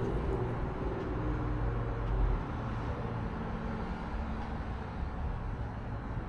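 2012 Audi Q5 idling, a steady low hum with a slight swell about two seconds in.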